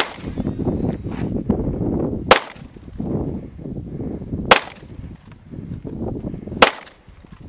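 Four single AR-15 rifle shots, evenly spaced about two seconds apart, each a sharp crack with a short tail, over a low steady rumble between shots.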